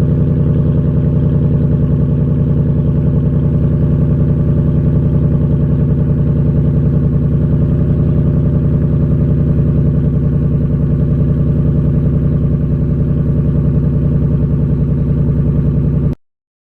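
2020 Ford Mustang GT's 5.0-litre Coyote V8 idling steadily through its active exhaust, a deep even rumble with no revving, which cuts off abruptly near the end.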